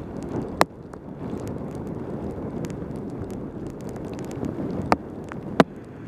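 Wind rushing over a helmet-mounted camera microphone and a mountain bike's tyres hissing on a rain-soaked road during a fast descent. Three sharp ticks stand out: one near the start and two close together near the end.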